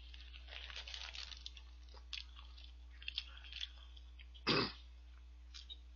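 Close mouth sounds of a person chewing a bite of Lotteria shrimp burger, with soft wet clicks and smacks, then one short, loud cough-like sound from the throat about four and a half seconds in.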